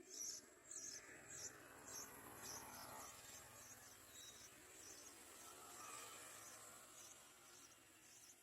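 Faint high-pitched chirping that repeats about twice a second, over a low background hiss; the chirps fade out for a few seconds in the middle and return near the end.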